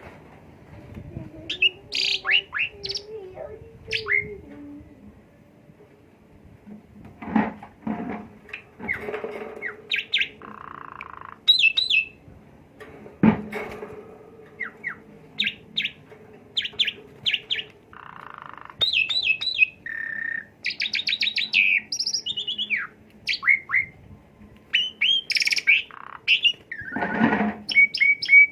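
Jalak suren (Asian pied myna) singing its varied song of short whistles, chirps, quick trills and harsh rasping notes, strung with mimicked calls learned as 'isian'.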